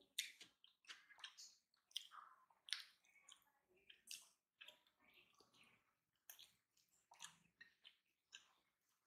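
Close-miked eating sounds: wet chewing and lip smacks on a mouthful of rice and fish, with squishes of fingers mixing rice on a plate. The sounds come as a string of short, separate clicks and squishes with quiet gaps between them.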